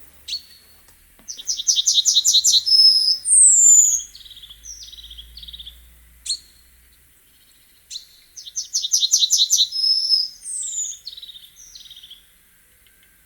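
Common nightingale singing: two similar phrases, each a fast run of repeated notes followed by a high downward-sliding whistle and a few lower buzzy notes.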